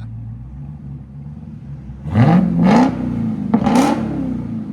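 2022 Dodge Charger SRT Hellcat's supercharged 6.2L HEMI V8 with straight-piped exhaust (mid-muffler and valve delete) idling, then blipped twice, about two seconds in and again a second and a half later, each rev rising quickly and falling back to idle.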